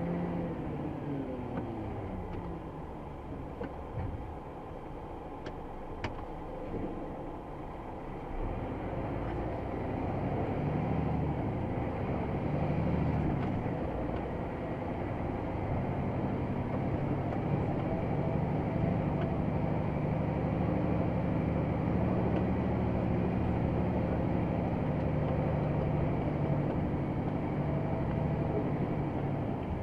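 Scania XT G500 8x8 truck's diesel engine running under load, hauling a full load of rubble. The engine note grows louder about eight seconds in and then holds steady.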